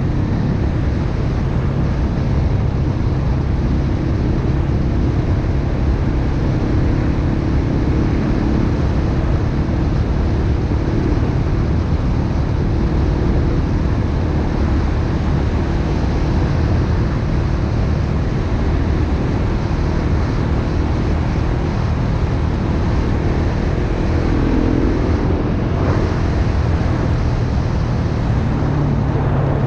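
Dirt bike engine running at a steady riding speed, with wind rushing over the microphone; the engine note dips and picks up again a few seconds before the end.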